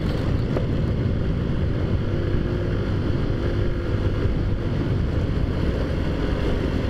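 Taotao Zummer scooter engine running steadily under way, with a constant drone and wind noise on the microphone.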